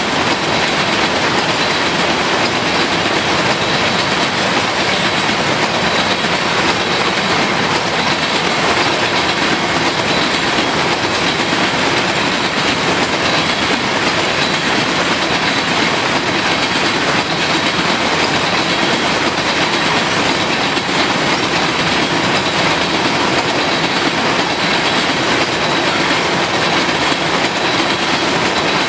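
Freight train of empty grain cars rolling past at steady speed: a loud, continuous noise of steel wheels on rail that does not let up.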